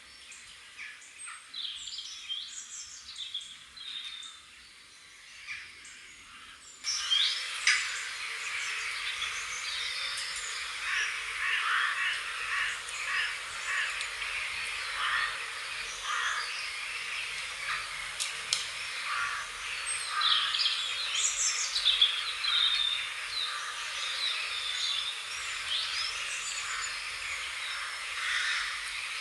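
Many small birds chirping and singing, with sparse calls at first. About seven seconds in it jumps abruptly to a louder, busier chorus of overlapping chirps and trills.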